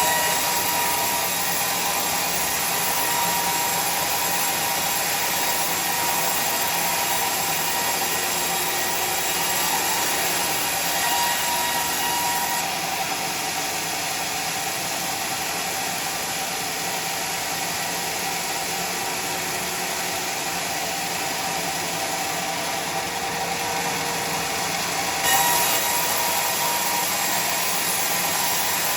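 Sawmill machinery running steadily while sawing teak timber: a continuous mechanical whir with a faint whine.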